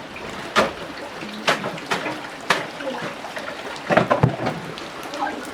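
Water splashing in irregular strokes about a second apart over a steady trickling hiss.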